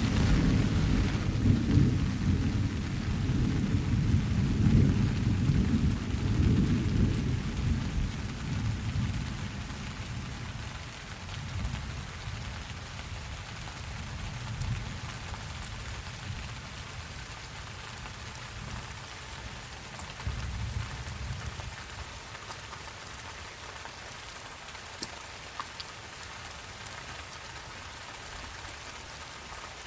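Steady rain falling, with a long, loud roll of thunder at the start that slowly dies away over about ten seconds. A fainter rumble of thunder follows about twenty seconds in.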